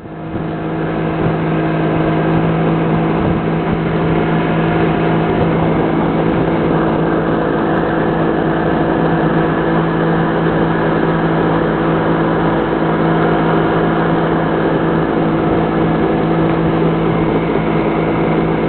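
Motorboat engine running at a steady speed, a constant even drone over a steady rushing noise.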